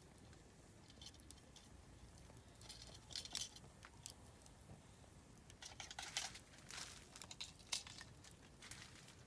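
Oak firewood burning in a campfire, crackling with irregular sharp pops and snaps, in small flurries about three seconds in and again between six and eight seconds in.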